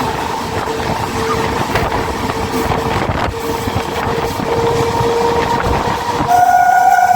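MEMU electric train running, a steady rolling rumble and rattle with a faint steady whine. About six seconds in, a train horn starts and is held loudly.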